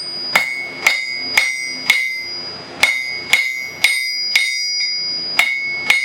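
Blacksmith's 2-pound (1,000-gram) hammer striking hot 5/16-inch round bar on an anvil with half-face blows, drawing out a taper for a decorative hook end. The blows come in a steady rhythm of about two a second, each ringing, with a brief pause near two seconds in.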